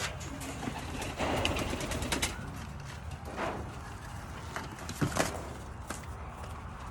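Young racing pigeons cooing, with rustling, scuffing and a few sharp knocks as birds are handled. The loudest knock comes about five seconds in.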